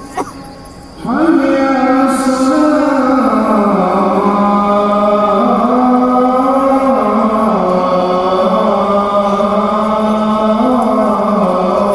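A muezzin chanting the Fajr call to prayer (adhan). One long melismatic phrase begins about a second in and is held throughout, its pitch stepping down and wavering as it is drawn out.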